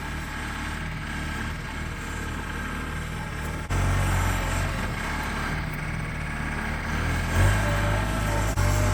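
John Deere loader tractor's engine running steadily, stepping up louder about four seconds in as the tractor is driven over freshly filled post holes to pack the dirt down. A faint whine rises over the engine in the second half.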